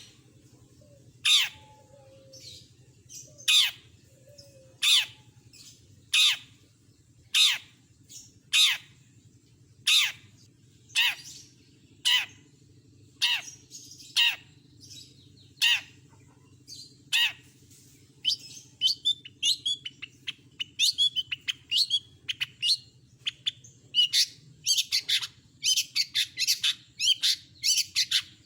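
Long-tailed shrike (cendet) calling: harsh, falling squawks repeated about once every second and a bit. About two-thirds of the way through, it breaks into a fast, varied chattering song.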